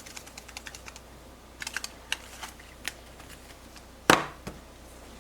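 Garlic powder shaken from a spice shaker onto raw chicken: a run of small taps and clicks, then one loud knock about four seconds in as a container is set down.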